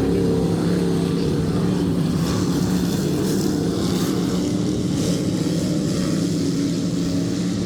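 Engines of dirt-track race cars racing around the oval, a steady drone of several engines at once with overlapping pitches.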